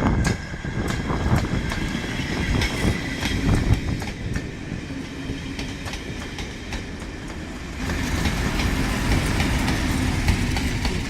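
A train passing at speed on the rails, its wheels clattering over rail joints in a run of sharp clicks. Then comes a steadier running rumble.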